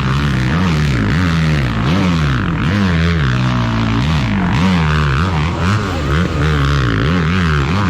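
Motocross dirt bike engines revving, the engine note rising and falling over and over as the throttle is worked.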